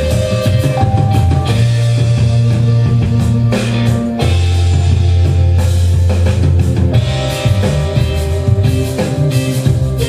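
Rock music with electric guitar, bass and drums, played back through an Akai AM-93 integrated amplifier into Canton Ergo RC-L loudspeakers.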